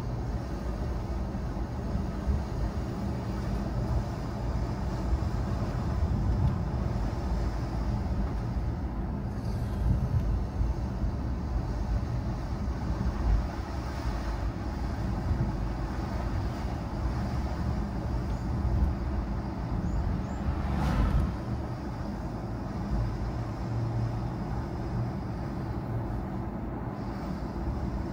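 A car driving, with a steady low rumble of engine and tyre noise and a short, sharper swish about three-quarters of the way through.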